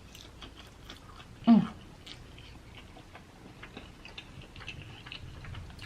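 Close-miked chewing and mouth sounds of a person eating, with many small clicks and crunches. About a second and a half in, a short voiced sound from the eater is the loudest thing.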